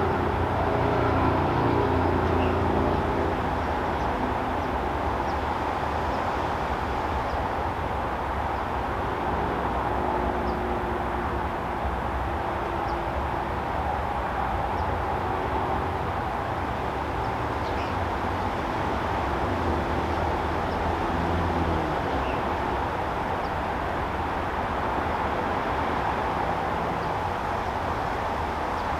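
Steady backyard ambience: a constant rumble and hiss, with faint low hums that come and go and a few faint, short high ticks.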